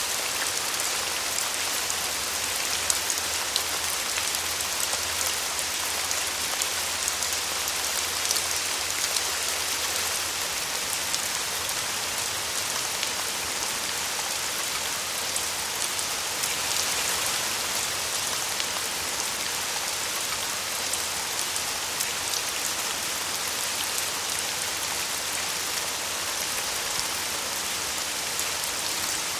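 Steady, even rain, with many small drop hits ticking through the hiss and no let-up.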